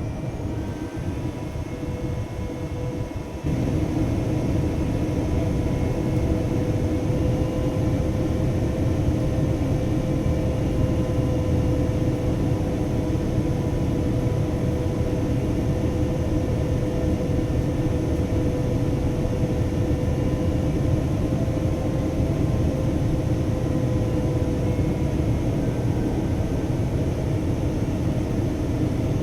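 Jet airliner cabin noise: a steady rumble of engines and airflow with a steady hum, stepping up in level about three and a half seconds in.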